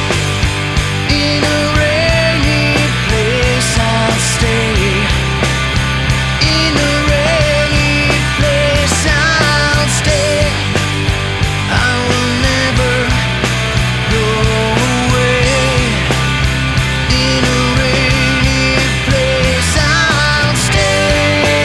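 Loud rock music with distorted electric guitars, bass and drums keeping a steady beat.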